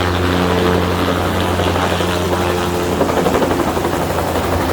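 Helicopter spreading fertilizer, flying low overhead at treetop height: a loud, steady rotor and engine hum that turns rougher and noisier through the middle of the pass.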